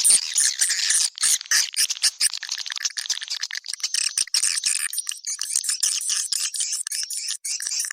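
Swiftlet calling sound: a fast, high-pitched chittering of many swiftlet chirps and clicks overlapping in rapid trills, the recorded call used to draw swiftlets to a nesting house.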